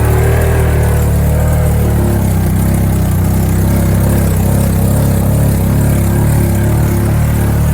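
Side-by-side UTV engine running steadily under way, with a constant low drone.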